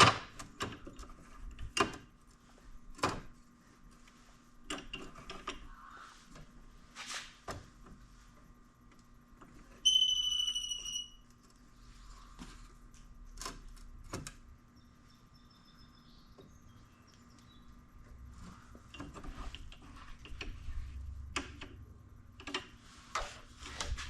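Scattered clicks and knocks of tools and metal being handled, with one high electronic beep about ten seconds in that lasts about a second.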